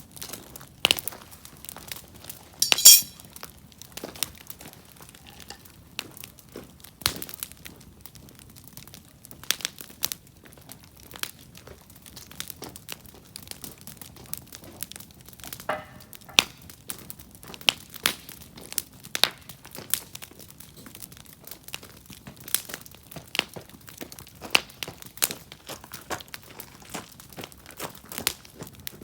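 Wood campfire crackling, with irregular sharp pops and snaps as the firewood burns; one louder pop about three seconds in.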